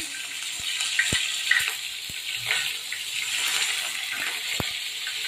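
Beef slices frying in hot oil in a frying pan: a steady sizzle with scattered pops and crackles.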